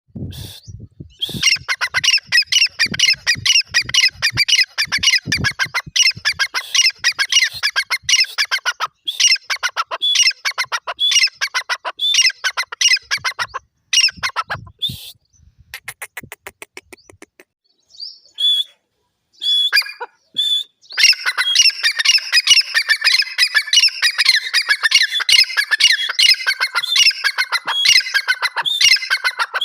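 Francolins calling: rapid, shrill, repeated notes that overlap densely, with a lull of a few seconds past the middle where only a few scattered notes sound, then dense calling again.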